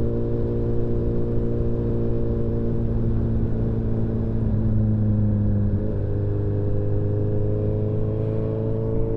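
Motorcycle engine running under way at a steady cruise, heard from the bike itself. About six seconds in the engine note breaks briefly and drops a little, then climbs slowly as the bike picks up speed.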